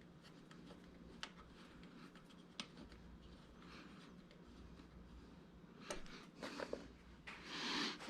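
Faint handling of small metal hardware on a plotter stand: a couple of light clicks, then rubbing and scraping from about six seconds in, as small thin-threaded screws are worked in by hand.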